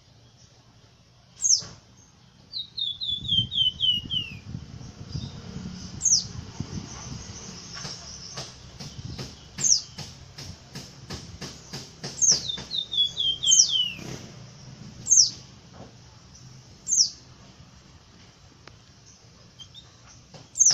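Wergan (flamboyan) songbird singing: sharp high whistled notes that fall in pitch every few seconds, twice a quick run of descending notes, and soft clicking calls in between.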